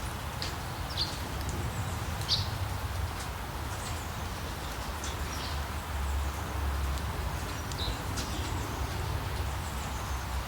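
Rainforest ambience: a steady hiss of rain over a low rumble, with short high bird chirps now and then, the loudest about two seconds in.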